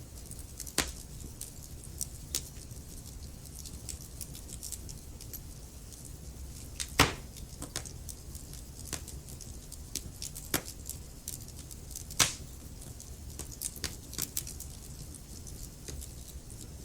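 Wood fire crackling: irregular sharp pops and snaps over a low steady rumble, with two louder pops about seven seconds in and again about twelve seconds in.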